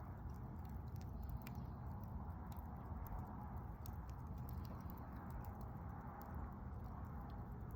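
Wood campfire burning: a steady low rush of flame with scattered small crackles and pops from the burning wood.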